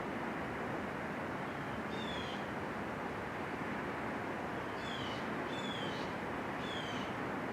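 A bird giving short, clear, falling call notes, one about two seconds in and three more in quick succession near the end, over a steady rushing background noise.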